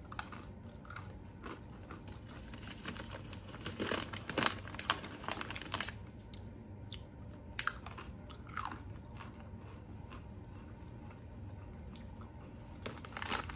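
A person crunching and chewing hard pretzel sticks. The crunchiest bites cluster about four to six seconds in, followed by quieter chewing.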